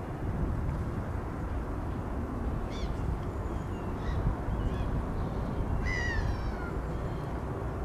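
Birds calling a few times over a steady low outdoor rumble, with one longer call falling in pitch about six seconds in.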